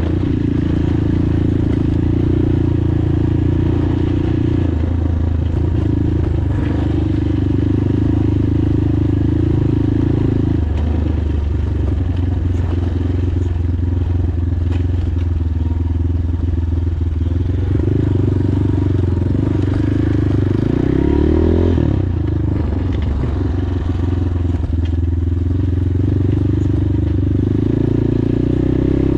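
PROGASI SUPER MAX 250 enduro motorcycle's single-cylinder engine running under way, its pitch shifting with the throttle: it drops about ten seconds in and swoops up and down around twenty seconds in.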